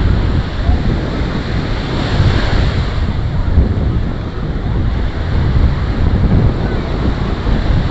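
Ocean surf washing onto the beach, under heavy wind buffeting the microphone with a loud, fluttering rumble.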